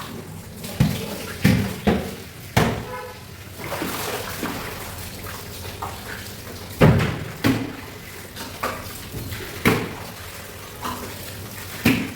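Irregular sharp knocks and thuds of chicken being chopped and handled at a cutting stall, with some water noise between the blows. The loudest blow comes about seven seconds in.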